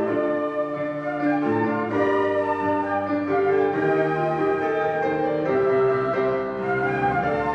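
Children's flute ensemble playing a tune in held notes that change every half second or so, with a keyboard-like accompaniment underneath.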